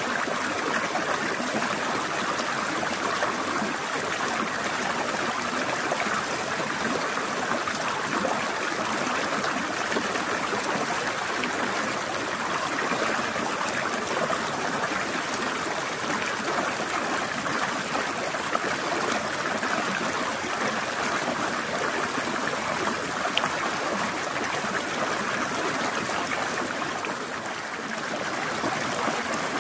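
Water of a small forest stream rushing and trickling over rocks: a steady, dense rush with a brief dip in level near the end.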